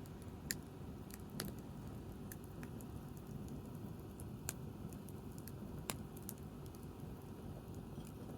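Wood fire crackling: scattered sharp pops and snaps over a low steady rush, the loudest pops about half a second in and near six seconds.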